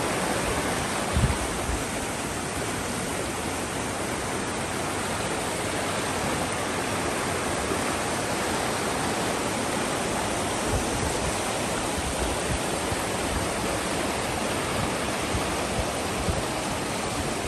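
Steady rush of whitewater from river rapids, an even hiss with no pauses, with a single low thump about a second in.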